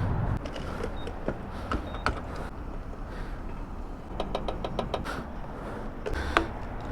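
Motorcycle engine sound dropping away as the bike stops. Then scattered clicks and knocks of handling at a fuel pump over a low rumble, with a quick run of short ticking pips about four seconds in and a brief tone a little after six seconds.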